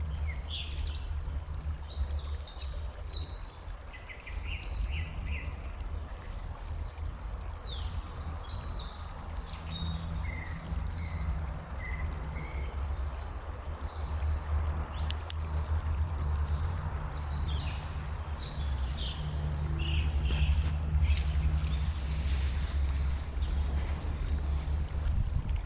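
Small birds chirping, with clusters of short, high, rapid calls coming and going, over a steady low rumble.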